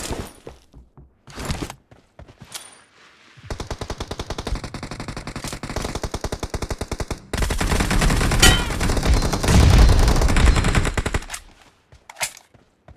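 Video-game automatic gunfire: a few single shots, then a long run of rapid, evenly spaced fire from about three and a half seconds in, turning louder and heavier about halfway through before it stops, with one more short shot near the end.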